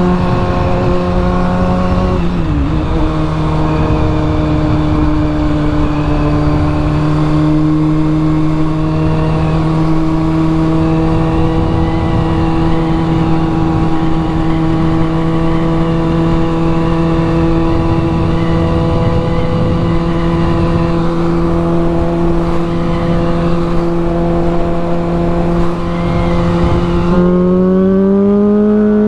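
Honda Grom's 124 cc single-cylinder four-stroke engine running while riding, holding a steady note at cruising revs. The pitch dips briefly about two seconds in, then climbs as the bike accelerates near the end.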